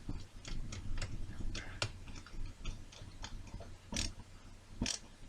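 Irregular small clicks and taps of model-kit parts and screws being handled and driven on the bench, with two sharper knocks about four and five seconds in.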